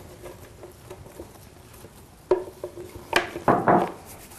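A utensil knocking twice against a dish, about two and three seconds in, then a short scrape: sticky chocolate-nut dough being scraped out of a bowl.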